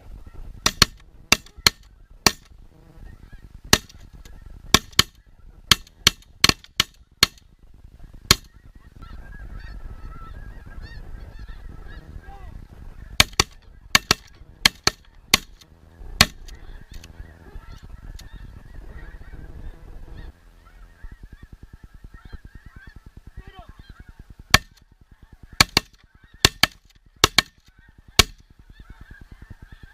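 A flock of snow geese honking steadily. Over the honking come repeated volleys of shotgun fire, several shots in quick succession each time, in three bursts.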